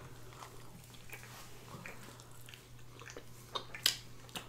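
Quiet, close-miked chewing and biting of food, with soft mouth clicks and one sharper click near the end.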